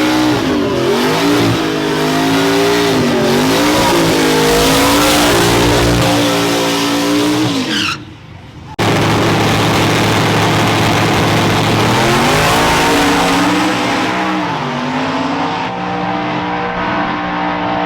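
Truck engines at hard throttle under heavy load, their pitch wavering up and down, over a haze of tire noise. About 8 s in the sound drops away briefly, then the engines hold a steady high-revving note.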